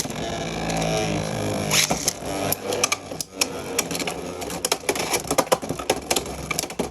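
Beyblade X spinning tops whirring in a plastic stadium, with a hum that slowly drops in pitch over the first couple of seconds and repeated sharp clacks as the tops collide.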